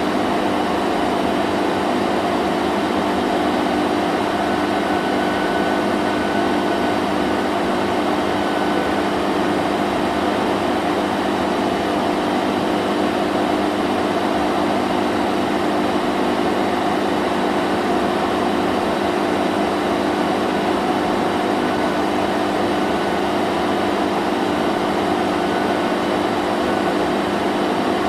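Vacuum cleaner running steadily: an even, unbroken motor drone and rush of air with a few held humming tones.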